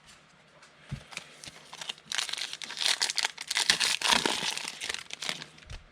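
Foil wrapper of a trading card pack crinkling as it is torn open and handled, a dense crackle lasting about three seconds, starting about two seconds in.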